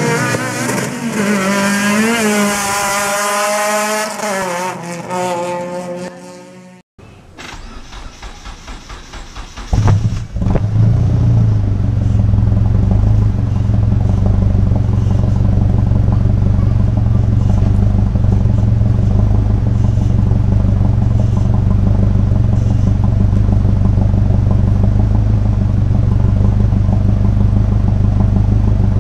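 Mitsubishi Evo 2 turbocharged four-cylinder engine, breathing through a 2.5-inch straight-pipe exhaust with a 3-inch muffler, cranking over in quick pulses. It catches loudly about ten seconds in, then settles into a steady, deep idle. Before this, a wavering pitched sound ends in an abrupt cut about seven seconds in.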